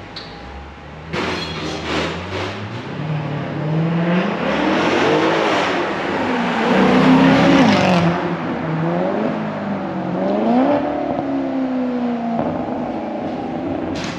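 Maserati GranTurismo's 4.7-litre V8 through an Emil aftermarket performance exhaust, revved up and down several times. It comes in sharply about a second in, is loudest at the highest revs in the middle, and settles back to a lower steady note near the end.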